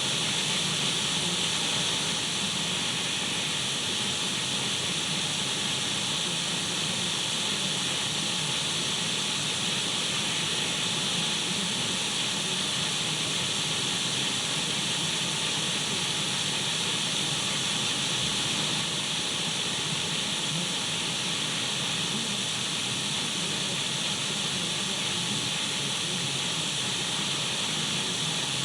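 Radio static: a steady, even hiss of an untuned radio, unchanging throughout, strongest in the high range.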